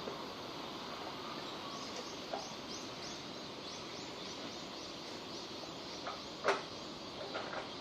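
Steady hiss of falling rain with a few louder drops tapping, the sharpest about six and a half seconds in. A faint high chirp repeats about three times a second over most of it.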